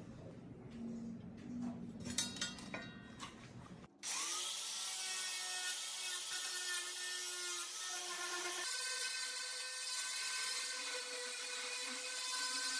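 Hand-tool work on the PC's parts for about four seconds, a rubbing, scraping sound with small clicks and taps, then an abrupt cut to steady background music.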